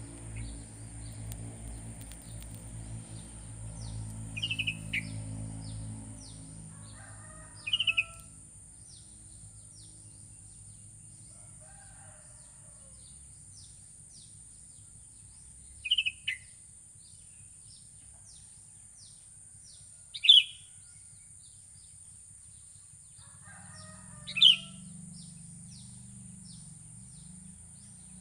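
Sooty-headed bulbul calling: five short, bright notes, each dropping in pitch, spaced a few seconds apart. Faint quick high chirps from other small birds run under them, with a steady high hiss and a low rumble that fades over the first few seconds.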